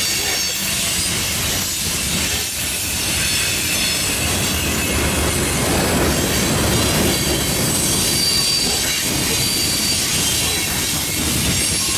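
Freight cars of a long manifest train (covered hoppers, a tank car, boxcars) rolling past close by: a steady noise of steel wheels on rail with clacking over the joints and a high-pitched wheel squeal.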